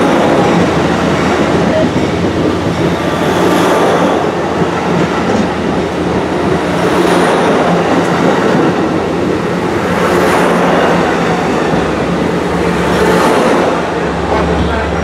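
Train rolling past close by on steel rails: a steady wheel-on-rail rush with a low engine hum underneath, swelling about every three seconds.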